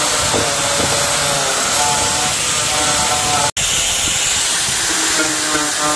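Steady loud hissing, like a jet of air or spray, over faint background music with a steady beat. The sound cuts out for an instant about three and a half seconds in.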